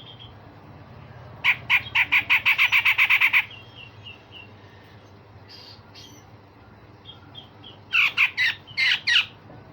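Cucak jenggot (grey-cheeked bulbul) giving harsh, rasping calls: a fast rattling run of about seven notes a second lasting two seconds, a few faint scattered notes, then a short burst of harsh sweeping calls near the end.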